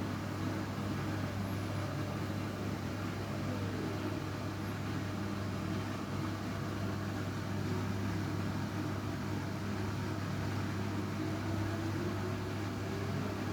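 Washing machine running with blankets in the drum: a steady motor hum, with a motor whine that falls in pitch about three seconds in and slowly rises again near the end as the drum changes speed.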